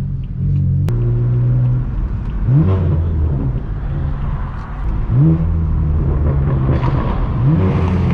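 Straight-piped BMW M4 F82's twin-turbo inline-six, with an AWE straight-pipe exhaust, running loud and blipped up in revs three times, each rev rising quickly and settling back.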